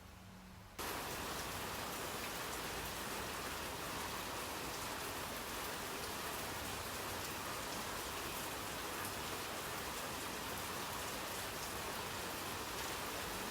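Steady hiss and patter of falling water drops, starting abruptly about a second in and running on evenly.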